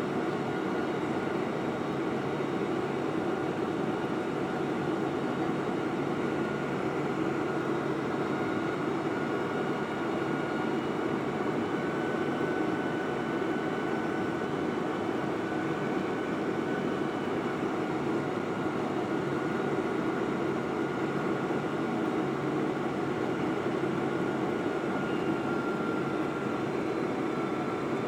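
Steady jet-engine and airflow noise of a Boeing 747-400 in flight, holding an even level, with faint steady high tones above it.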